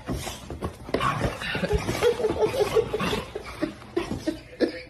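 A person laughing in a quick run of short, even bursts about two seconds in.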